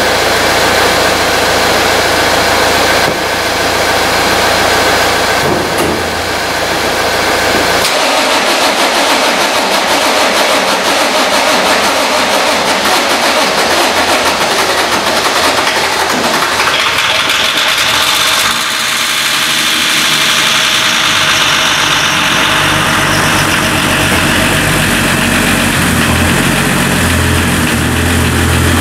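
Red Volvo's engine being cranked and started on jump leads from a running van, then running at idle.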